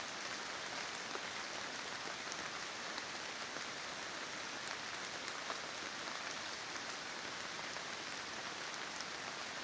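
Steady rain falling on forest leaves and undergrowth, an even patter with scattered individual drops ticking.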